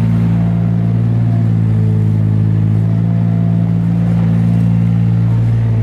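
Tractor engine running steadily at a constant speed, a low, even drone with no change in pitch.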